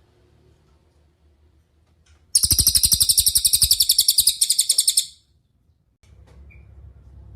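Cililin songbird giving a loud, rapid trill of fast repeated high notes, starting a couple of seconds in and lasting about three seconds with a brief break. A faint low hum lies underneath.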